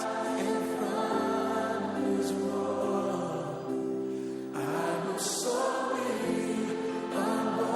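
Choral music: voices singing held chords, in a gospel style.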